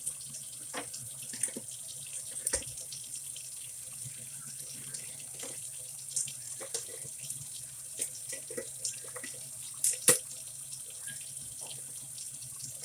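Water splashing and dripping as dirty work gloves are washed in soapy water, with many scattered sharp splashes and knocks; the loudest comes about ten seconds in.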